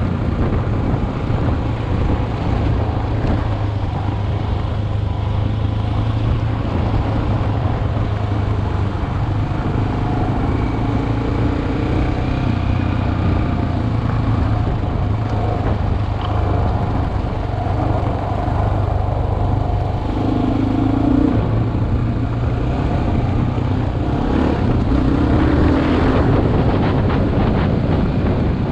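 Single-cylinder dual-sport motorcycle engine running steadily while riding, its pitch shifting a little with the throttle.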